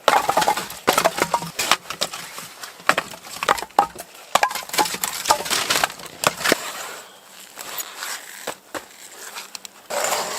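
Firewood being split by hand: a run of irregular sharp knocks and cracks of wood, thinning out over the last few seconds.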